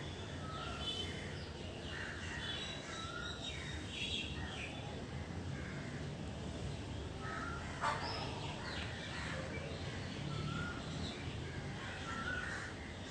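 Crows cawing and other birds chirping in the background, scattered short calls throughout, with a single sharp click about eight seconds in.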